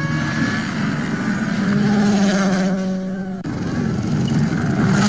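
Rally car engine running at a fairly steady pitch, with an abrupt change in the sound about three and a half seconds in.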